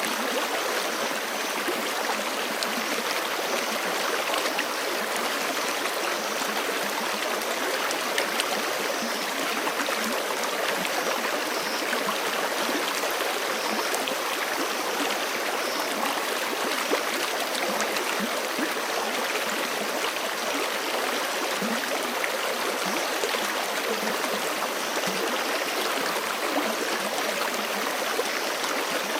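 Forest creek flowing steadily over rocks, a dense, even rush of running water with small splashes and gurgles.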